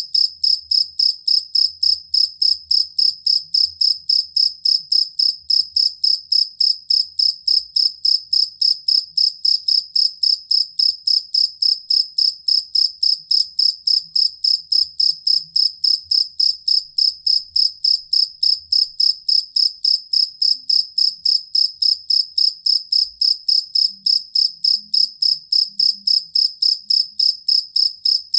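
Field cricket chirping steadily, a high clear chirp repeated about four times a second without a break.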